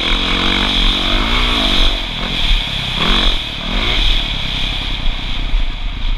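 Dirt bike engine heard from the rider's helmet camera, revving up and falling back several times as the bike rides the track. Steady wind rush on the microphone runs under it.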